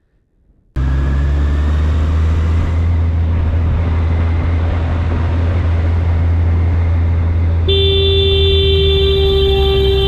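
Steady low rumble of traffic and engine noise on a motorcycle ride, cutting in suddenly under a second in. Near the end a vehicle horn sounds and is held as one long steady blast.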